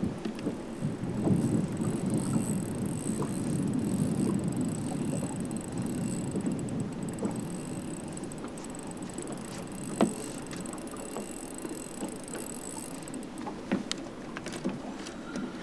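Steady rushing noise of water and wind aboard a bass boat, fuller in the first few seconds, with a few sharp knocks, the clearest about ten seconds in.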